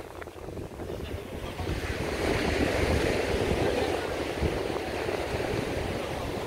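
Ocean surf breaking and washing up on a pebble beach, swelling about two seconds in and staying loud, with wind buffeting the microphone.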